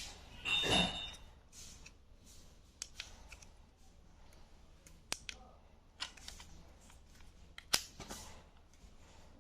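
Handling noise from a 12-volt cordless drill kit: a short clattering rattle about half a second in, then a few scattered sharp clicks and knocks of hard plastic parts. The drill's motor is not running.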